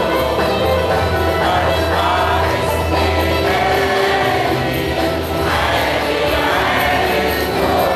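Choir singing an Arabic Christian hymn with instrumental accompaniment.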